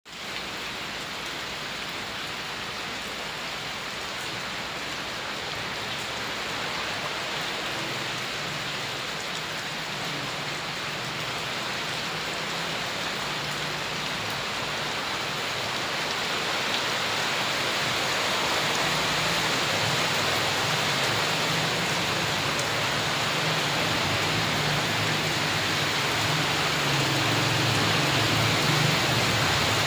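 Steady rain falling, growing gradually louder through the second half, with a low rumble building underneath.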